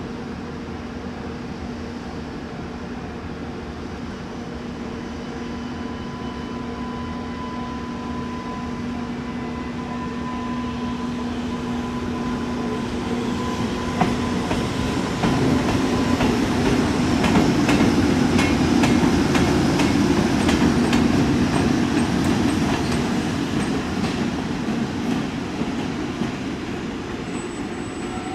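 A train approaching and passing close by: a steady hum for the first half, then wheels clattering over rail joints in a quick run of clicks. The clatter is loudest a little past halfway and fades near the end, with a faint high squeal just before the end.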